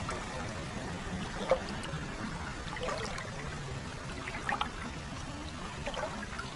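Hot-spring water flowing steadily into a foot bath, trickling and pouring, with a few brief brighter splashes.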